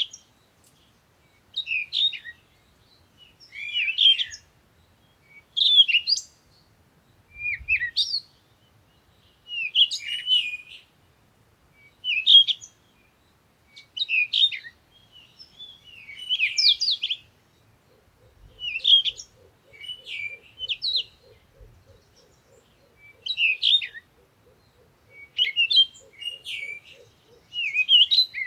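A songbird singing short, high chirping phrases, one about every two seconds. Just past the middle a faint, low, rapid pulsing call joins in and runs until near the end.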